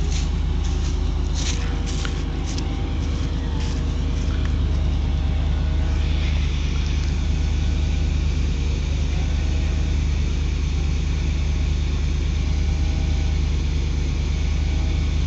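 A truck engine running steadily with a low rumble. There are a few sharp clicks in the first two seconds, and a higher steady tone joins in about six seconds in.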